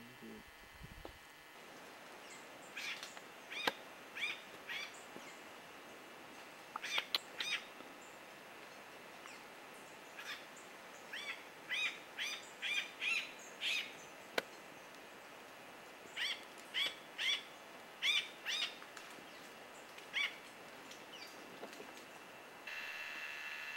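A bird calling: short chirping notes in quick runs of three to six, with pauses of a second or more between runs.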